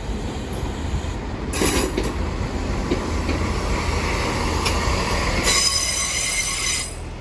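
A Class 166 'Thames Turbo' diesel multiple unit rolling into the platform with a low, steady rumble. It gives a brief high-pitched wheel squeal about a second and a half in, and a longer, louder squeal from about five and a half seconds that stops just before the end.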